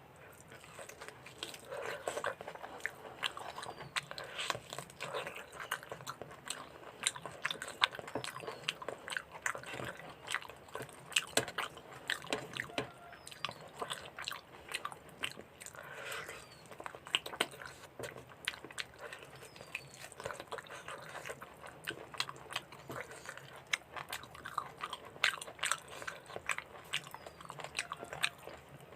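Close-miked chewing and biting of mutton curry with rice: a steady run of wet mouth clicks and smacks, with occasional crunches.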